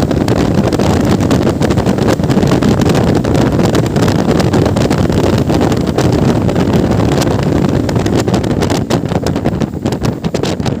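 Wind buffeting the microphone of a moving motorcycle, a steady loud rumble with irregular crackles, over the engine and road noise.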